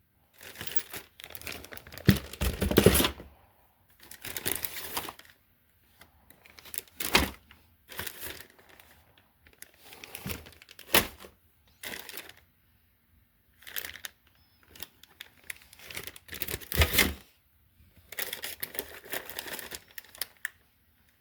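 Plastic parts bags crinkling and rustling in short, irregular bursts with pauses between, as bagged RC truck body parts are handled and sorted, with a few sharper clicks of hard plastic pieces.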